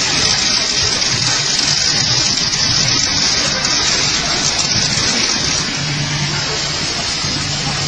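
Robotic arc welding: the welding arc hisses and crackles steadily as the robot lays a seam on a fan impeller blade. A low hum joins in near the end.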